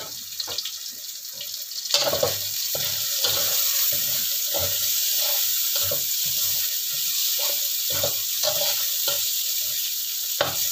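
Ground spice paste sizzling in hot oil as it is sautéed until fragrant: a steady hiss with small scattered crackles that gets louder about two seconds in.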